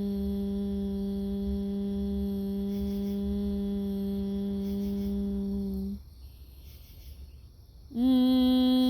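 A woman's voice humming a long, steady single note. It breaks off about six seconds in for a soft breath, then she starts a slightly higher held note with a little upward scoop near the end: vocal toning.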